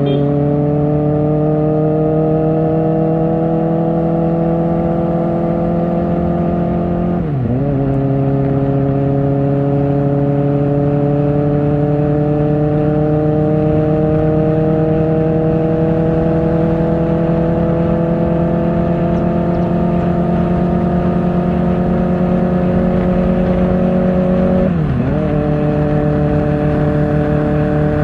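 Kawasaki Ninja ZX-4R's inline-four engine through an Akrapovic exhaust, pulling steadily with its pitch slowly climbing. Twice it drops briefly and picks up again at a lower pitch in a quick upshift, about seven seconds in and again near the end.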